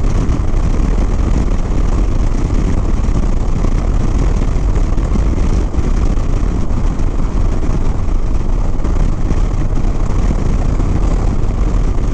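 Steady rush of riding wind on the microphone over the low rumble of a Harley-Davidson Softail Sport Glide's V-twin and road noise, while riding.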